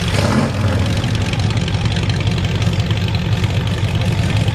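Mud truck engine idling steadily, with a short louder burst right at the start.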